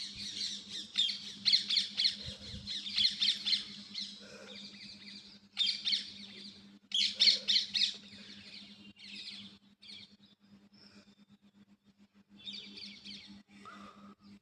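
Birds squawking and chattering in quick runs of harsh notes. The calls come in bursts, strongest through the first half and fainter and sparser after about eight seconds.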